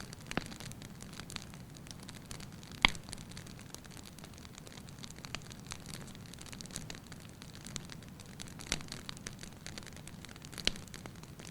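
Firewood burning in a fireplace, crackling lightly: scattered snaps and pops over a low steady rush of flame, with one sharp, loud pop about three seconds in and a few smaller ones near the end.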